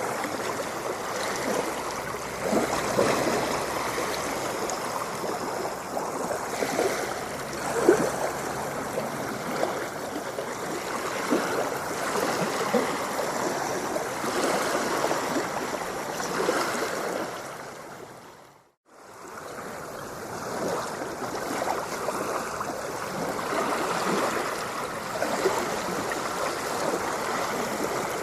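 Continuous splashing, gurgling water, full of small irregular splashes. About nineteen seconds in it fades out to silence and quickly fades back in.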